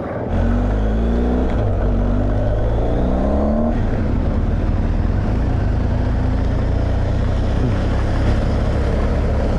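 Motorcycle engine pulling away, its pitch climbing in about three steps as it shifts up through the gears over the first few seconds, then running steadily at cruise with wind and road noise.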